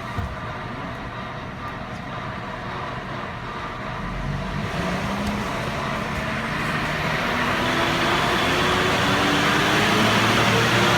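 Truck engine running on a chassis dyno and gradually speeding up: its pitch starts rising about four seconds in and the sound grows steadily louder.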